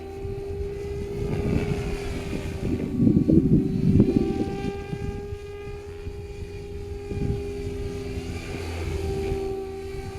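Electric Goosky RS5 RC helicopter in flight, its motor and rotor giving a steady whine with slowly shifting higher tones. Wind buffets the microphone in gusts, loudest about three to four seconds in.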